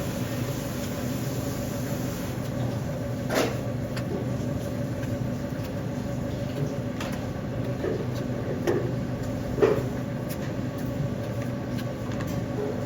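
A steady machine hum with a constant low drone, with several short light knocks and clicks over it between about three and ten seconds in.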